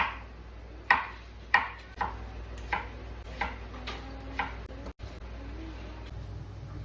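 A kitchen knife chopping on a cutting board, about eight sharp strokes spaced a little under a second apart.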